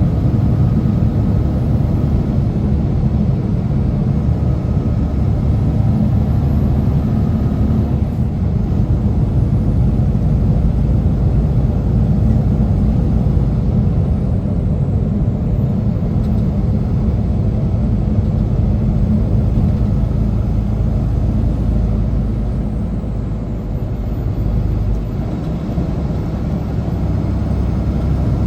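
Semi truck's diesel engine and road noise heard from inside the cab: a steady low rumble that eases off slightly near the end.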